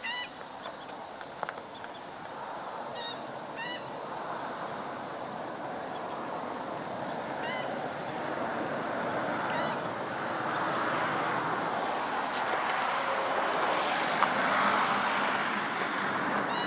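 Black-winged stilts calling: a few short, sharp, yelping calls spaced a few seconds apart in the first part. Behind them a steady hiss of background noise grows louder through the second half.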